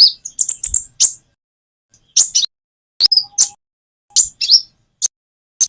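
Konin bird calling in short, sharp high chirps, grouped in quick clusters with pauses between them.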